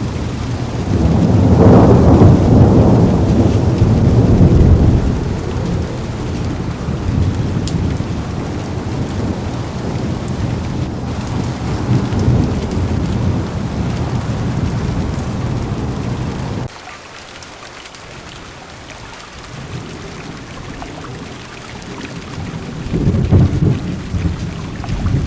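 Heavy rain falling on a car's windows and roof, with low rolls of thunder swelling about a second in and again near the end. About two-thirds of the way through the sound suddenly drops to a softer level.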